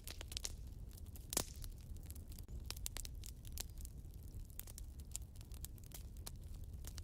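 Wood fire burning in a fireplace, crackling with frequent irregular sharp pops over a low steady rumble; one louder pop comes about a second and a half in.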